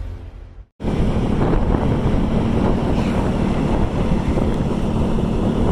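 Wind buffeting the microphone over steady vehicle rumble, with a faint low hum throughout. It starts abruptly about a second in, after a short drop to silence.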